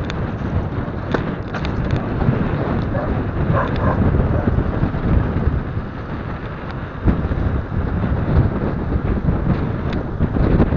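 Wind buffeting an action camera's microphone while riding, a dense rumble with scattered clicks and knocks throughout.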